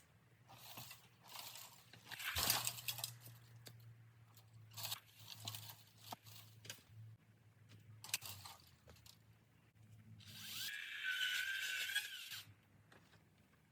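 Crunching and cracking of dry bamboo and brush being cut and cleared, in several separate bursts with the loudest crack about two and a half seconds in. Near the end comes a longer scraping sound with a steady high tone, lasting about two seconds.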